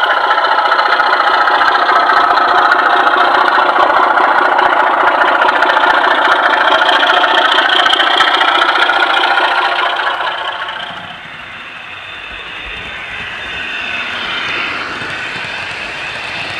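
Sound decoder in a Class 24 model diesel locomotive playing its Sulzer engine sound through a small speaker, with no deep bass. The engine sound runs steadily and loudly, then drops to a quieter level about eleven seconds in, and a wavering higher tone follows.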